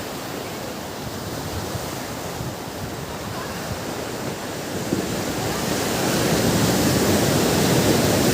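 Ocean surf washing on a beach: a steady rush of waves that swells louder past the middle as a wave comes in.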